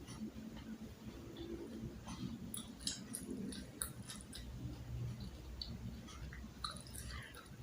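Close-miked chewing and mouth sounds of a person eating, with scattered soft clicks and smacks over a faint low hum.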